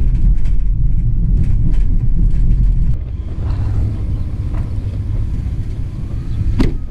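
Car driving, with a steady low road-and-engine rumble heard from inside the cabin. The rumble drops in level about three seconds in, and a single sharp click comes near the end.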